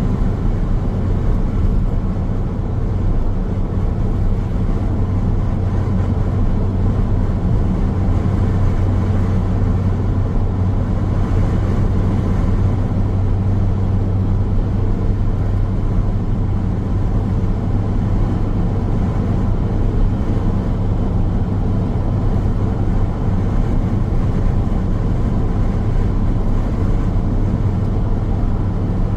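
Car driving along a road: steady road and tyre noise with a constant low drone, unchanging throughout.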